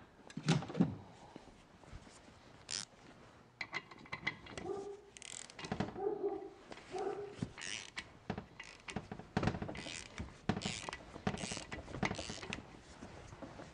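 Ratcheting wrench clicking and metal tools knocking as the nut of an injector-cup puller is turned on a 7.3 Powerstroke cylinder head, drawing out the brass injector cup. There are a few short squeaks in the middle.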